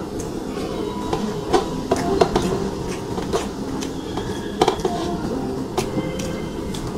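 Close-miked chewing and mouth sounds of someone eating curry and rice, with many short wet clicks and smacks every second or so, over a steady low rumble.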